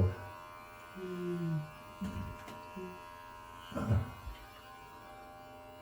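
Electric pet hair clipper running with a steady buzz as it is worked through a cat's fur. A short low sound comes about a second in, and a brief knock near four seconds.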